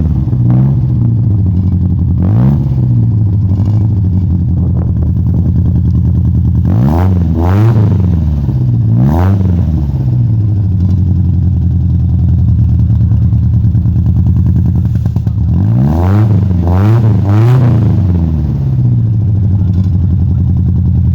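1966 Triumph Spitfire's small four-cylinder engine idling steadily and revved in quick throttle blips: one early, then a cluster of three about a third of the way in and another three near the end. It runs without the whine it was restored to cure.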